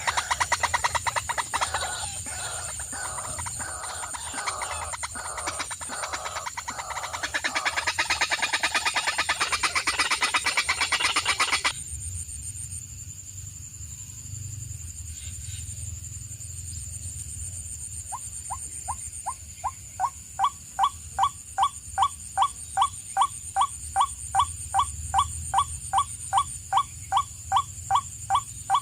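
A dense chorus of rapid animal calls that cuts off suddenly about twelve seconds in. After a quieter pause, a bird starts calling in short, evenly spaced notes, about two a second, which go on to the end.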